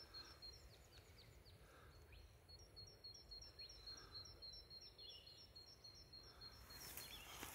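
Near silence: faint woodland ambience with a small bird singing a long run of short, high, evenly spaced notes, a few faint chirps, and a soft rustle near the end.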